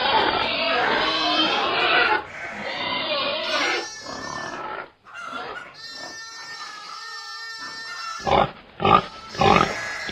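Domestic pigs grunting and squealing, several at once at first, then quieter. There is one long drawn-out call in the second half and a few short, loud calls near the end.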